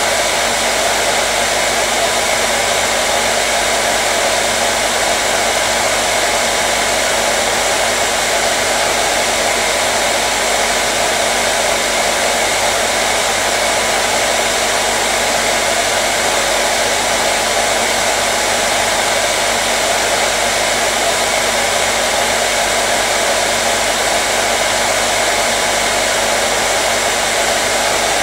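Hair dryer (blow dryer) running continuously at a steady speed: an even airy roar with a faint steady motor hum underneath, unchanging throughout.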